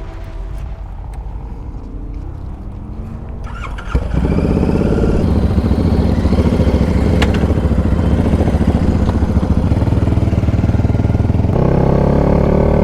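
Motorcycle engine running. About four seconds in it suddenly gets much louder and runs steadily, and its note shifts near the end.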